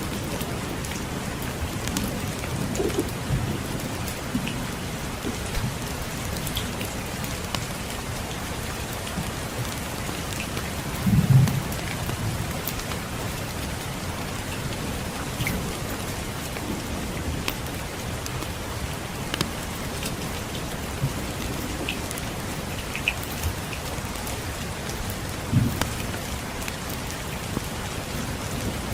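Steady rain pattering, with scattered small crackles from a wood fire. Low rumbles of distant thunder come early on, most strongly about a third of the way in, and again near the end.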